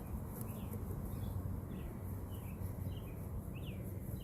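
Faint, short bird chirps, about eight scattered through a few seconds, over a low steady outdoor background.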